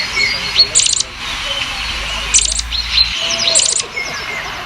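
Birds singing, with three bursts of rapid high chirps over other thinner whistled calls.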